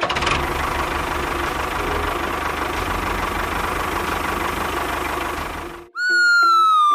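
Engine running with a fast, chugging low rumble for about six seconds, then cutting off abruptly. Near the end a loud whistle-like tone starts and slides steadily down in pitch.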